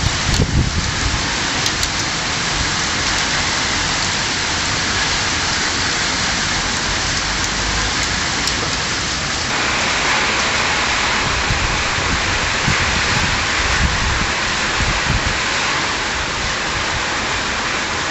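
Heavy rain pouring in a steady hiss during a storm, with a low rumble near the start. About halfway through the rain gets louder and brighter.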